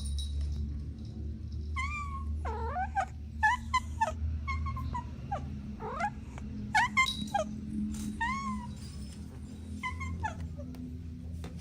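Kittens mewing, about a dozen short high-pitched mews in quick succession, some overlapping at different pitches, over a steady low hum.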